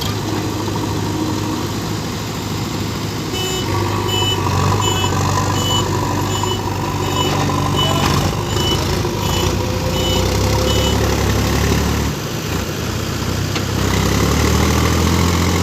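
Heavy diesel engines running steadily with a low drone. From about three seconds in until about eleven seconds, a reversing alarm beeps about twice a second.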